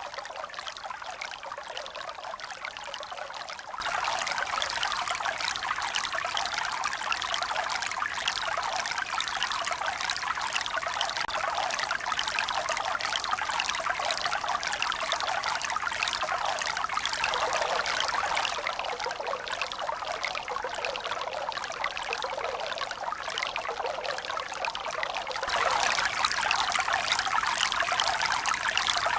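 Running water trickling and pouring in a steady, unbroken stream. It gets abruptly louder about four seconds in, eases a little in the middle, and jumps up again near the end.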